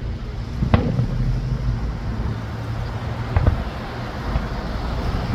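Fireworks going off: a sharp bang about a second in and a quick pair of bangs a few seconds later, over a steady low rumble.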